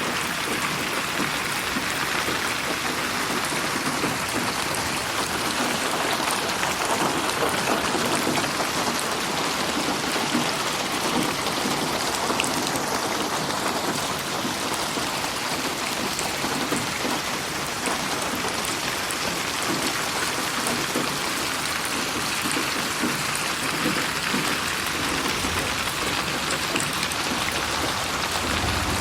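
Steady rain falling, a dense even hiss with drops pattering on a surface, processed as 8D audio so it seems to move around the listener.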